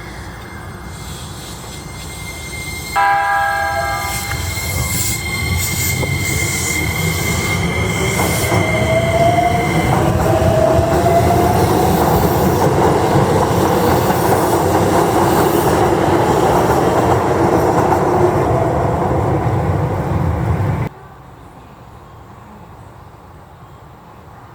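Keikyu 1500-type electric train sounds a short horn blast, then passes close with loud wheel and running noise and a rising motor whine. The train noise cuts off suddenly near the end, leaving a quieter steady background.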